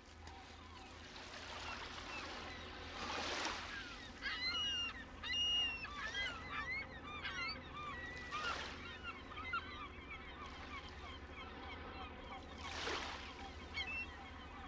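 Seaside ambience: waves wash onto the shore about every five seconds, three times in all. Seabirds call over them in short cries, thickest in the middle.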